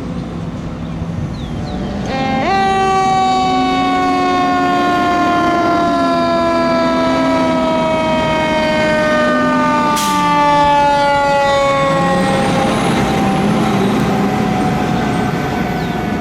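Fire truck sirens. About two seconds in, a loud siren tone jumps up and then slowly falls in pitch for about ten seconds, while a lower siren wavers up and down beneath it. A short click comes about ten seconds in.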